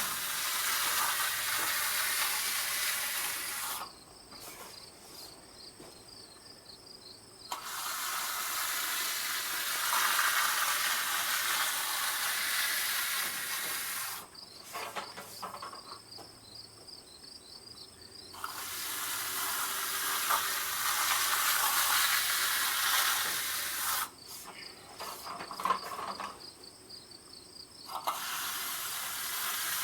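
Loud hissing noise in long bursts of several seconds, stopping and starting three times, with a fast high-pitched insect chirping heard in the pauses.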